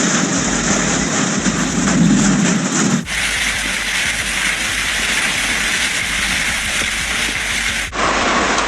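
Heavy rain and hail pelting down in a severe thunderstorm, a loud steady hiss that changes abruptly about three seconds in and again near the end.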